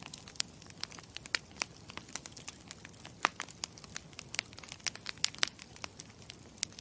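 Campfire crackling: irregular sharp pops and snaps, several a second, over a low steady hiss of burning wood.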